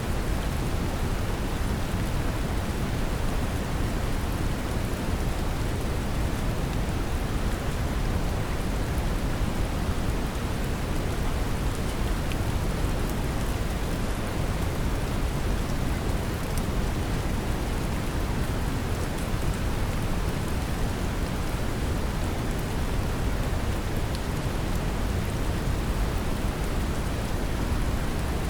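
Steady brown noise, a deep, even hiss weighted toward the low end, mixed with the patter of gentle rain.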